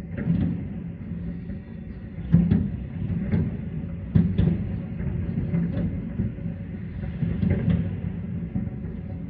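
Aerial fireworks booming in an uneven series of bangs, about eight of them, the loudest about two and a half and four seconds in, over a steady low rumble.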